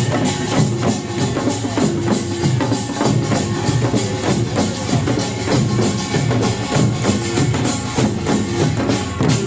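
Pungmul (nongak) percussion band playing a fast, dense rhythm: kkwaenggwari small gongs, janggu hourglass drums, buk barrel drums and jing gong together. The playing stops near the end.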